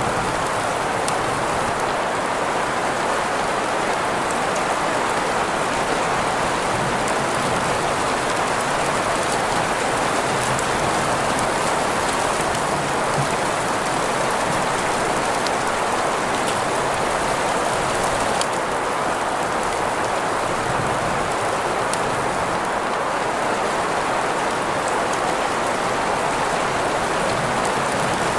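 Steady rain sounds blended with green noise: a continuous, even hiss, strongest in the middle range, with faint scattered drop ticks.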